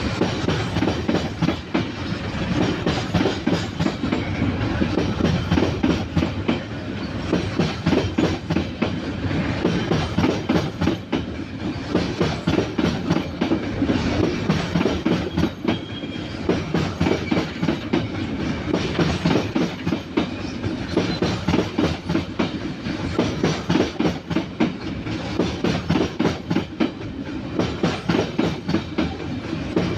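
Railway wagons rolling past, their wheels clattering over the rail joints in rapid, repeating groups of clicks.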